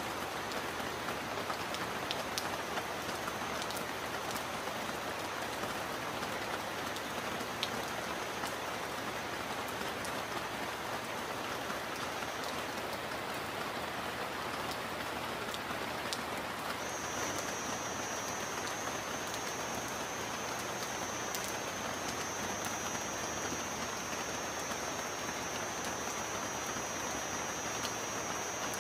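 Steady rain falling, with scattered single drops ticking through it. A thin, high, steady tone sits above the rain; it drops out for a few seconds near the middle and comes back louder.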